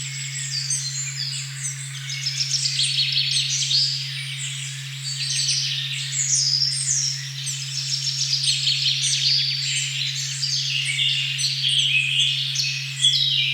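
A steady 136.1 Hz sine tone held without a break under a forest recording of many birds singing at once, a dense chorus of quick chirps and falling notes.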